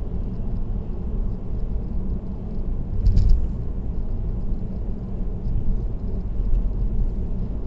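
Steady low road and tyre rumble of a car cruising on an expressway, heard from inside the vehicle, with one brief louder burst about three seconds in.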